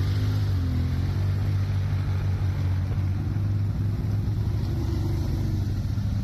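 ATV (quad) engine running steadily while riding, its pitch shifting a little with the throttle.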